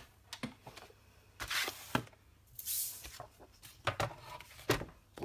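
Cardstock and paper being handled on a craft desk: a few brief rustling swishes and several light knocks and taps.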